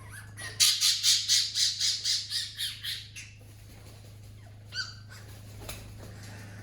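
A parrot squawking in a rapid run of harsh calls, about four a second, fading away over a couple of seconds, then one more short call about five seconds in.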